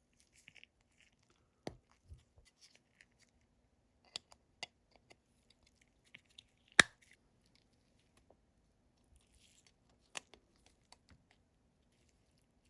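Scattered light clicks, taps and rustles of small objects being handled on a work surface, with the sharpest click about seven seconds in.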